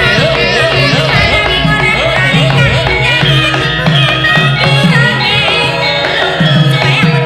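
Javanese gamelan ensemble playing a loud instrumental passage, with a hand drum's pitch glides.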